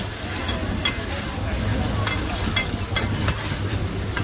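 Oyster omelette batter sizzling in hot oil on a large flat pan, with a metal ladle and spatulas scraping and clinking against the pan again and again.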